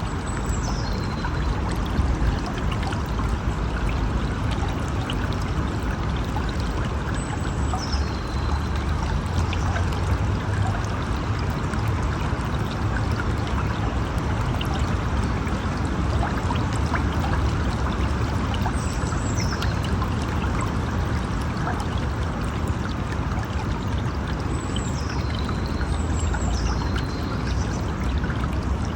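River water flowing steadily, a continuous rushing and splashing. A few faint, high, falling whistles are heard at intervals over it.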